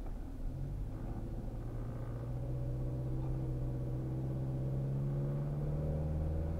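Car engine and road noise heard inside the moving car's cabin, the engine's pitch climbing slowly and steadily as the car gathers speed.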